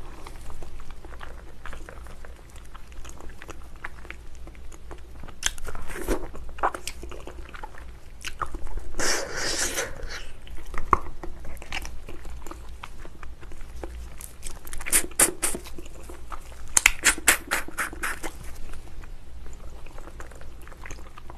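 Close-miked mouth sounds of biting and chewing soft, long-boiled ox feet in a spicy sauce: scattered smacks and clicks, with quick runs of smacks about fifteen and seventeen seconds in.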